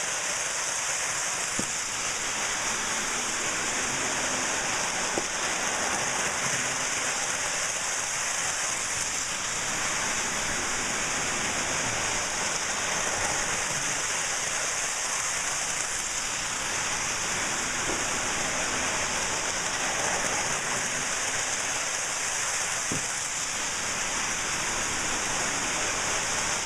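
Lionel O gauge model trains running on the track: a steady hissing rolling noise with a few faint clicks.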